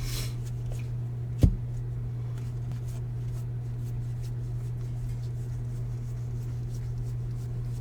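Trading cards and packs being handled, with faint rustling and small clicks over a steady low hum, and one sharp knock about a second and a half in.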